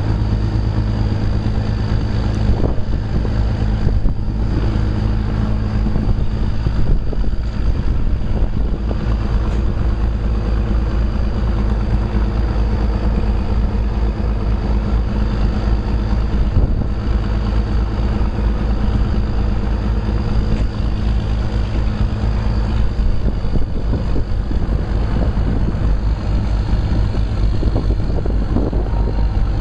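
Narrow-gauge passenger train in motion, heard from aboard: a steady low locomotive engine drone under continuous rattling and clatter of the cars on the track.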